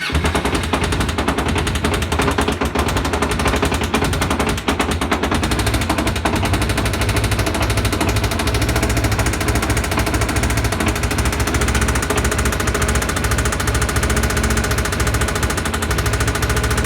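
Kawasaki ZZR250 parallel-twin engine running with a loud, rapid, steady knocking from inside the engine. The owner suspects something in the pistons.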